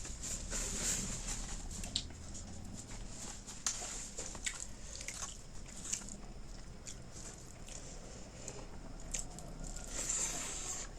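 Close-miked eating: chewing and biting with many short mouth clicks scattered unevenly through the stretch.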